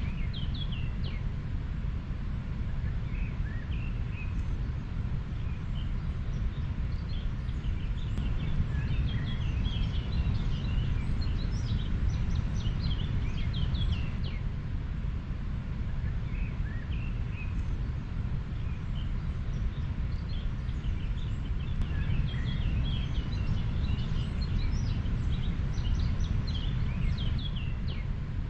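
Steady low rush of a flowing river, with many small birds chirping in short, high notes over it throughout.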